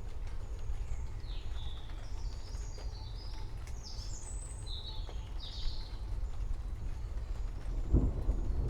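Birds chirping in short, quick calls over a steady low rumble of a rain-and-thunder ambience. About eight seconds in, a deeper rumble swells in and grows louder.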